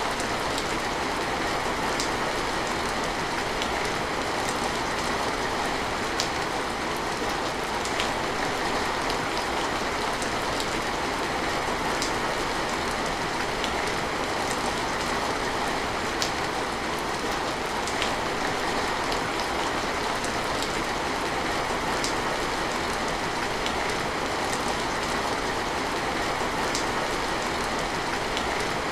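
Steady rain falling as an even hiss, with single sharp drop ticks standing out every couple of seconds.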